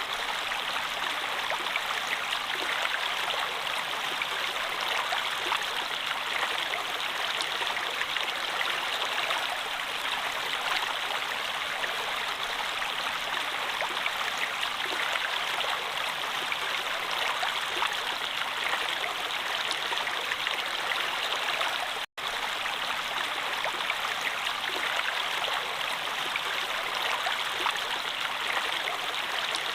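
Water of a stream flowing steadily, an even rush and trickle with no breaks in its flow. It cuts out for a split second about two-thirds of the way through.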